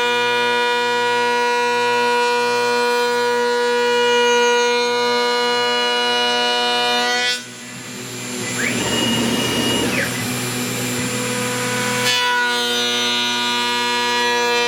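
CNC router spindle running with a steady high whine. About seven seconds in the whine breaks into a rougher, noisier stretch with a short rising-and-falling tone, and it resumes steadily about five seconds later.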